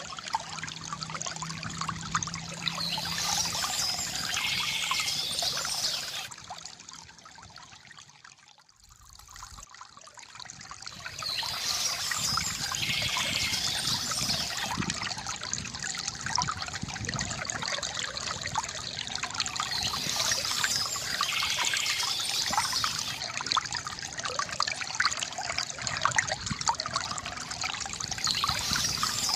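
Water trickling and pouring from a bamboo fountain spout into a basin, a steady gurgling splash. It fades down to near quiet about seven seconds in, then comes back up within a few seconds.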